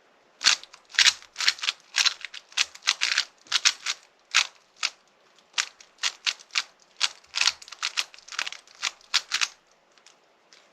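Rubik's speed cube layers being turned by hand in quick moves while it is scrambled, giving sharp plastic clicks about two to three a second that stop near the end.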